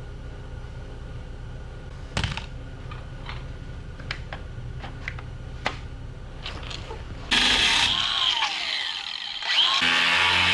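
A steady low hum with scattered metal tool knocks and clicks from hand work on a car frame; about seven seconds in, loud electric-guitar music starts abruptly.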